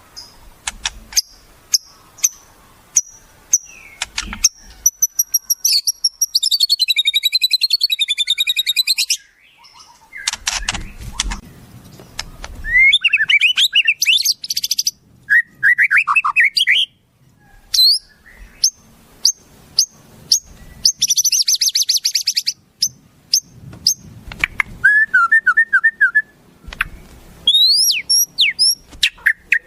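A string of different wild bird calls spliced one after another. It starts with repeated short, high chirps and moves into a wavering warble, then swooping whistles, a fast buzzy trill and rising whistled notes. There is a short noisy burst about ten seconds in.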